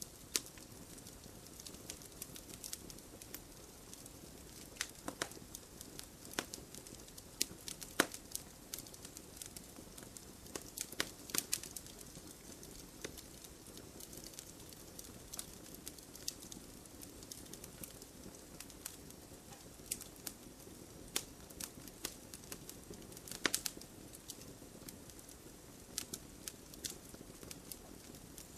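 Wood bonfire crackling: irregular sharp pops and snaps of uneven loudness over a steady low rush of the flames. The biggest snaps come about 8 s in and about 23 s in.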